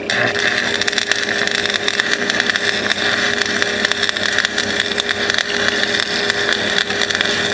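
Stick welder arc burning steadily, a continuous crackling hiss, as a bead is run around a bolt on the cracked front axle of a Craftsman riding mower.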